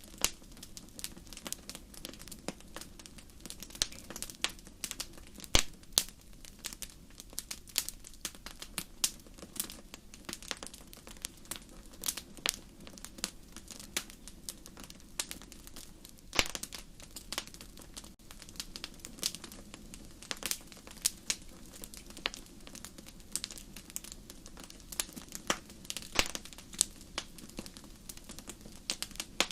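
Wood campfire crackling: irregular sharp pops and snaps, several a second, over a soft steady hiss, with a few louder pops standing out.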